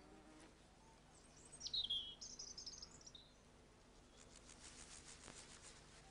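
A small songbird calling in quiet countryside: one sharp falling chirp, then a brief high warble. Faint rustling follows later.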